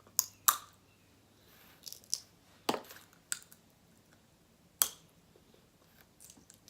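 Snow crab leg shells cracking and snapping open by hand, a few sharp cracks spaced a second or two apart.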